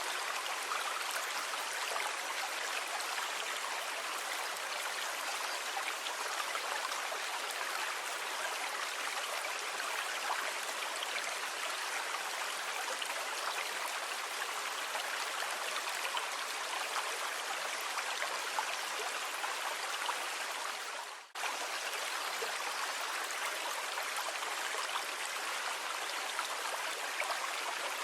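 Sea water, heard as a steady, even wash of hiss without a clear rhythm of breaking waves. About 21 seconds in it fades out briefly and cuts straight back in.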